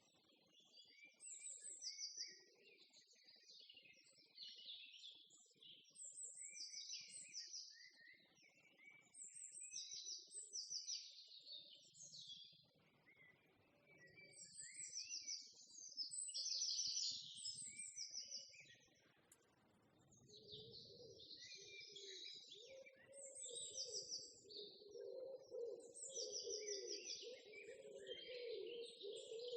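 Songbirds singing and chirping, with short trilled phrases repeating every second or two. A lower, steady hum comes in about twenty seconds in.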